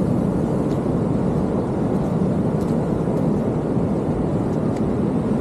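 Steady low roar of ocean surf, with a few faint clicks over it.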